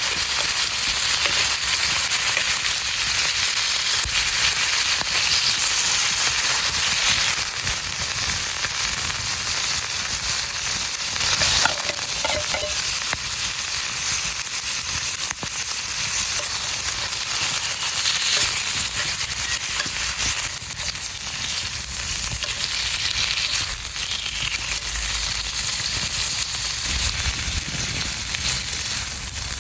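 Steady sizzling hiss with scattered light crackles, from cooking over a campfire.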